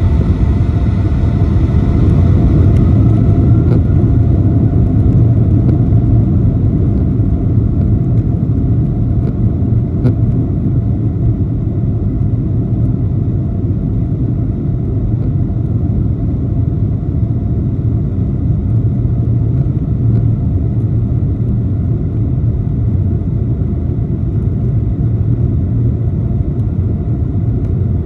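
Boeing 757-200 jet engine and airflow noise heard inside the cabin: a loud steady rumble, with a faint whine that rises in pitch over the first few seconds.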